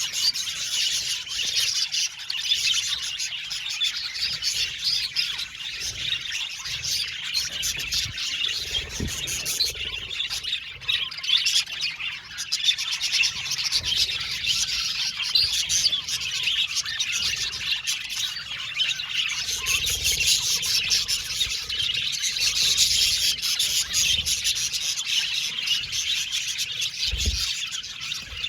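A flock of budgerigars chattering and chirping continuously, many overlapping fast high warbles and tweets with no pause. A couple of low thumps come in, one near the end.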